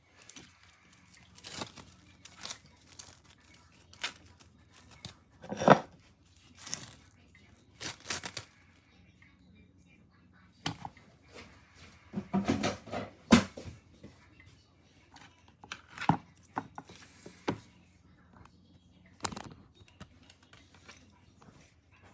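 Irregular handling noises: short sharp clicks and rustling or tearing sounds, scattered with gaps between, over a faint steady hum.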